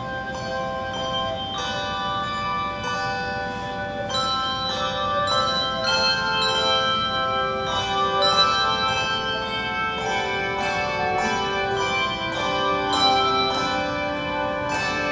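Handbell choir playing a melody in chords, the struck handbells ringing on and overlapping.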